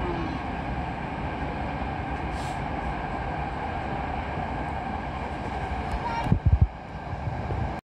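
Steady running rumble heard inside a Hankyu 7000-series train carriage at speed. A brief high hiss comes about two and a half seconds in, and a few loud low thumps come a little after six seconds, after which the rumble is quieter.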